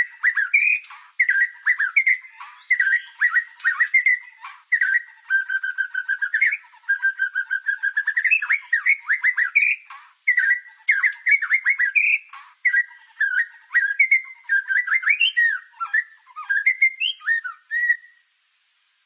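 White-rumped shama (murai batu) singing nonstop, in full 'gacor' song: a varied run of whistled phrases and fast trills with mimicked cililin calls worked in. The song stops about a second before the end.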